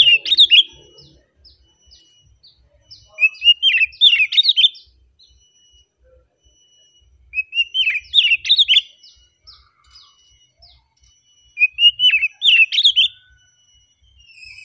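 Oriental magpie-robin (kacer) singing: a short phrase of quick, varied whistled notes about every four seconds, four phrases in all.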